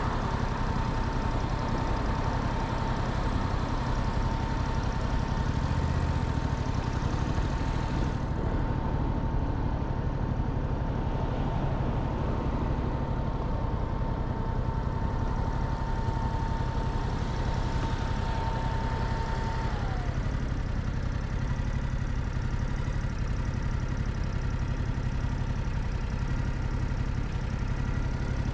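Motorcycle engine idling steadily. A thin, steady high tone runs alongside it, then glides down and stops about twenty seconds in.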